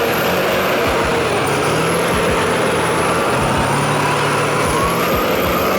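Heavy diesel vehicle engine running steadily, with a faint high whistle above it.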